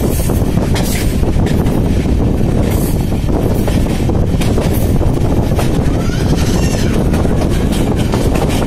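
Passenger train running at speed: a steady rumble of wheels on rails with rapid rattling and clicking from the carriage.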